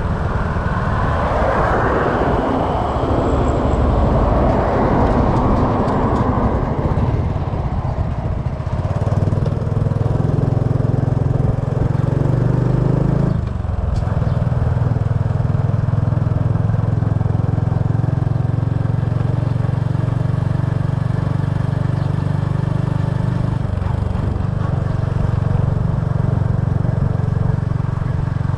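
Small motorbike's engine running steadily while riding, heard from on the bike. A rush of noise lies over it for the first several seconds, and its note breaks briefly about halfway through.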